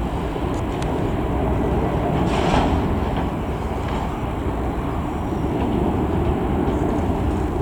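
Steady low rumble of an easyJet Airbus A319-111's CFM56 jet engines, with a brief hiss about two and a half seconds in.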